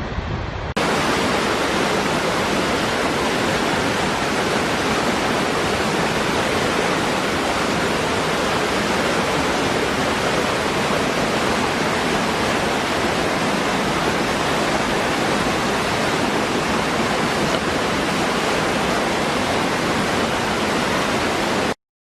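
Waterfall rushing: a steady, even roar of falling water with no change in level. It starts abruptly after a cut just under a second in and stops suddenly near the end.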